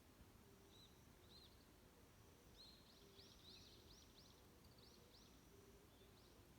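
Faint songbirds calling in a forest: scattered high, arching chirps, with a quick run of repeated chirps in the middle, over a soft background hiss.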